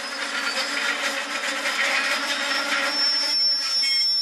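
Railway passenger coaches rolling past close by: wheels running over the rail joints, growing louder, with a thin, steady, high-pitched wheel squeal that strengthens in the second half.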